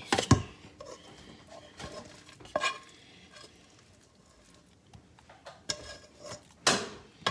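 Dishes and utensils being handled: a few separate knocks and clinks, the loudest just after the start and again near the end.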